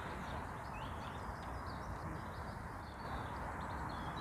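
Small birds chirping and twittering over a steady outdoor background hiss.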